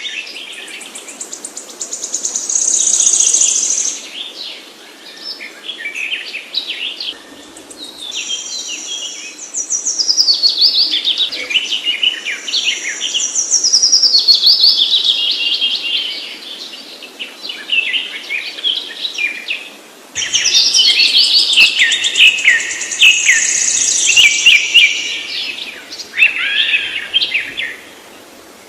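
Songbirds singing and calling together: rapid chirps and trills in repeated bouts of several seconds, over a faint steady background hiss.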